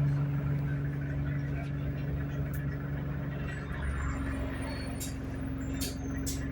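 ADL Enviro200 single-deck bus engine heard from inside the passenger saloon, a steady low drone with an even hum, strengthening slightly about four seconds in. A few sharp clicks or rattles sound near the end.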